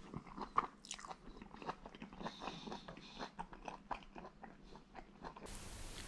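Close-up chewing and biting of a mouthful of chorizo omelette with salad greens: a quick irregular run of small crunches and wet crackles. About five seconds in, it gives way to a steady hiss.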